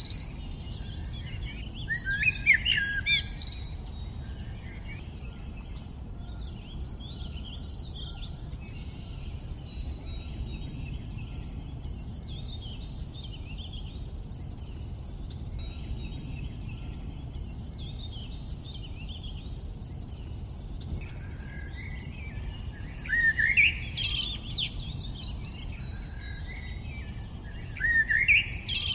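Songbirds singing and chirping in short repeated phrases over a steady low background rumble, with louder bursts of song a couple of seconds in and twice near the end.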